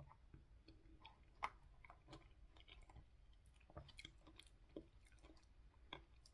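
Faint chewing of kiwi fruit, with scattered soft clicks and scrapes of a plastic fork scooping flesh out of a kiwi half; one sharper click about one and a half seconds in.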